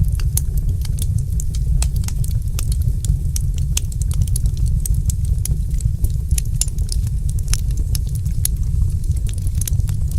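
Wood fire crackling in a fireplace: irregular sharp pops and snaps several times a second over a steady low rumble of the burning fire.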